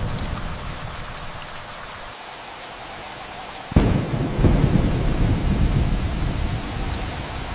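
Steady rain with thunder. A rumble dies away over the first couple of seconds, then a sudden thunderclap a little under four seconds in rolls into a low rumble that slowly fades.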